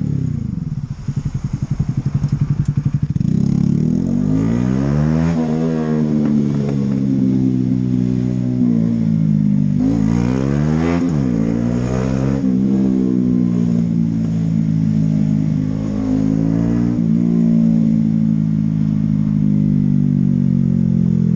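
Honda CB125R's single-cylinder four-stroke engine pulling away from a slow, thumping low speed, revs climbing and dropping through gear changes twice, then holding a steady cruise.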